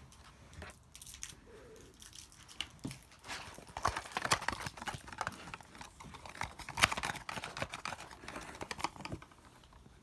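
Kittens scrabbling and pattering about, a busy run of light clicks and scratches that is thickest from about four to nine seconds in.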